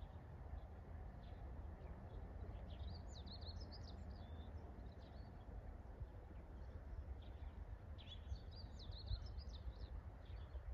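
A small songbird sings two short, quick warbling phrases, about three and eight seconds in, over a steady low outdoor rumble.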